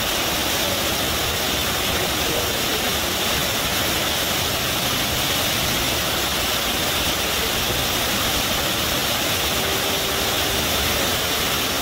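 River water rushing and gushing in a steady, unbroken roar of noise.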